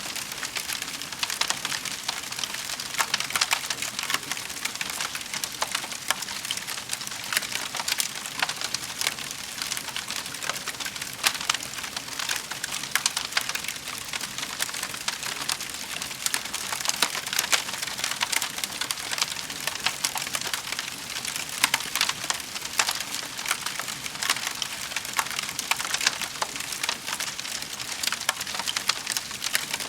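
Wood fire crackling in a fireplace: a steady dense run of small snaps, with louder pops here and there.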